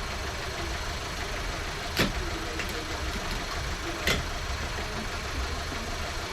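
A steady low engine-like rumble, with two sharp knocks about two seconds apart.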